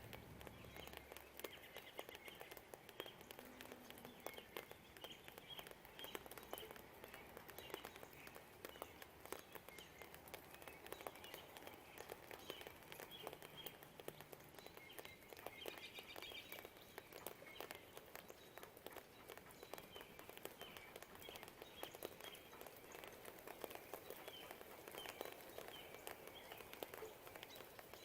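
Light rain pattering and dripping, with small birds chirping over and over through it and a brief busier flurry of chirps about halfway through.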